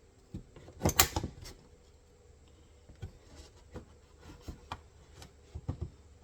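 Steel MB-550 foothold trap being worked with a screwdriver to release its second spring. A sharp cluster of metal knocks comes about a second in, then light scattered clicks and taps.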